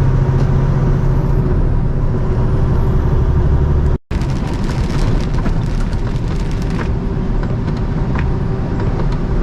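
Semi truck's diesel engine drone and road noise heard from inside the cab on the move in the rain. There is a brief dropout about four seconds in, after which the sound is noisier, with scattered clicks.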